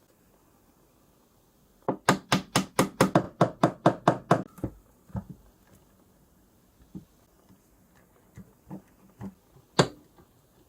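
A quick run of about a dozen sharp knocks, roughly five a second, lasting about two and a half seconds, then a few scattered lighter knocks and one loud knock near the end.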